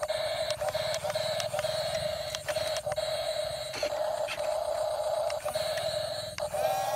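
Small electric motors of radio-controlled toy construction vehicles running with a steady whine, with scattered clicks. Near the end the whine's pitch rises and shifts.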